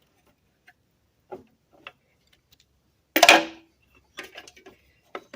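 Hand tools working on a golf cart's exhaust bolts: scattered light metal clicks, and one loud metal clank with a short ring about three seconds in.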